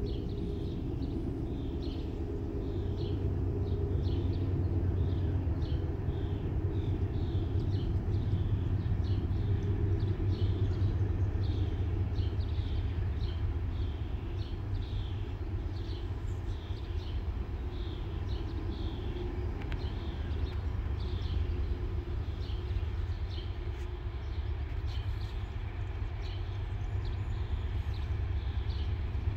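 Low, steady rumble of a distant diesel-hauled freight train approaching. Over it, a small bird chirps a short, high call about one and a half times a second.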